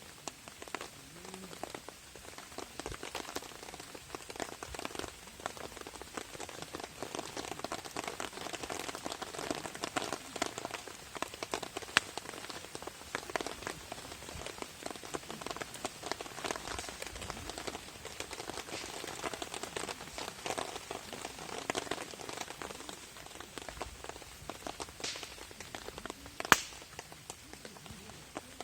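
Rain pattering steadily on a camping tarp, a dense run of fine drops. Twice a sharp, louder crack stands out, the second one near the end.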